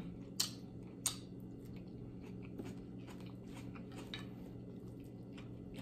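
Close-miked eating sounds: chewing and small wet mouth noises, with two sharp clicks in the first second or so and fainter ticks after, over a faint steady hum.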